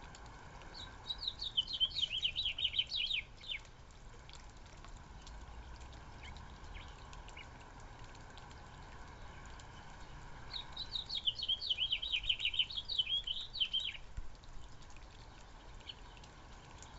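A small songbird singing a fast, jumbled song of quick high notes, twice, each phrase about three seconds long and some seven seconds apart.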